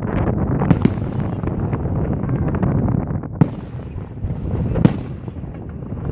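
Fireworks going off: a dense run of crackling that thins out, with three sharp, louder bangs standing out among it.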